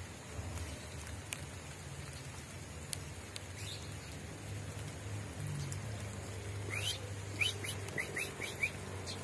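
Light drizzle pattering steadily, then near the end a bird gives a quick run of about six short rising chirps.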